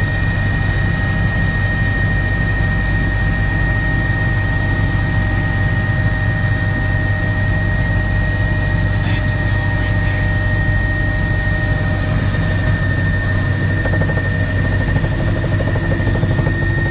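Helicopter heard from inside the cabin: a steady, loud drone with a constant high-pitched whine over it.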